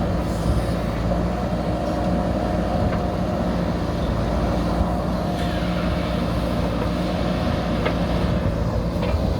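Diesel engine of a JCB earthmover running steadily at a constant pitch, with a few faint clicks from the machine.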